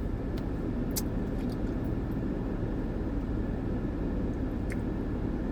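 Steady low rumble and hiss of a truck running, with a faint click about a second in.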